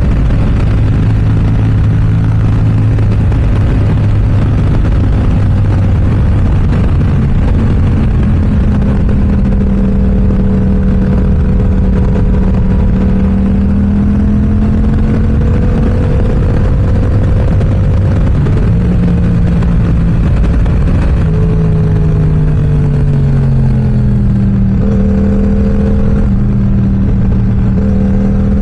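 Yamaha R7 with an M4 aftermarket exhaust, ridden on the road: a loud, steady engine note whose pitch rises and falls with the throttle and steps down several times in the second half as the rider shifts gears, over constant wind noise.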